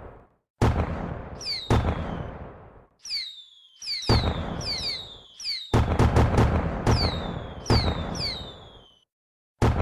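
Fireworks shells bursting in a rapid string of sharp bangs. Each bang is followed by a falling whistle and a fading crackle, and the groups of bursts are broken by brief silent gaps.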